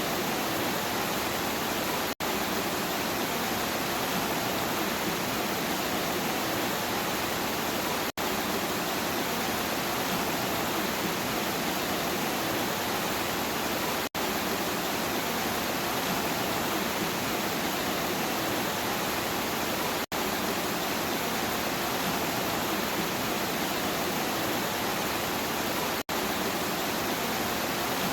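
Steady rainfall, an even hiss, broken by a very short dropout to silence about every six seconds.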